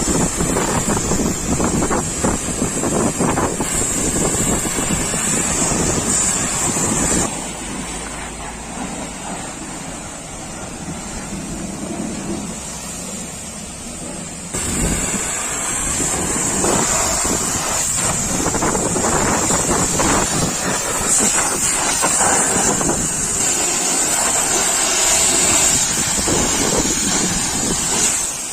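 A pressure washer's water jet spraying onto a truck: a steady loud hiss and rush of water. It drops to a quieter, duller sound for several seconds about a quarter of the way in, then returns just as suddenly.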